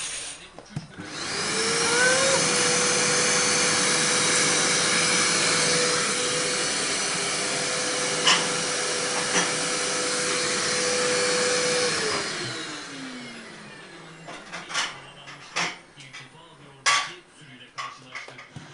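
Vacuum cleaner switched on: its motor whine rises to a steady pitch, runs for about ten seconds with a rushing air noise, then is switched off and winds down with a falling pitch. A few sharp knocks follow near the end.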